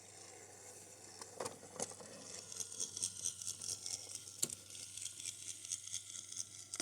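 Light clicks and knocks from a wooden toy train set, followed by a fast, light rattling patter of small wooden parts.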